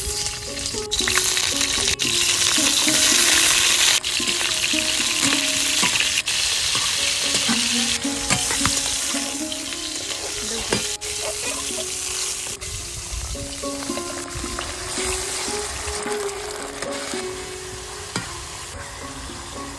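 Whole pointed gourds (patal) sizzling as they fry in hot oil in a metal kadai, with a spatula now and then knocking and scraping as they are turned. The sizzle is loudest in the first few seconds and slowly dies down.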